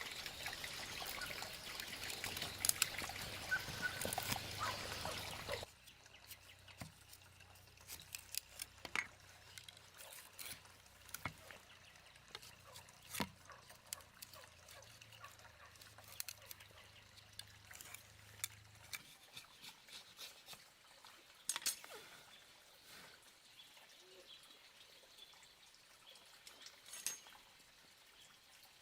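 Running water, trickling and splashing, stops abruptly about five and a half seconds in. Then it is quiet, with scattered small clicks and taps.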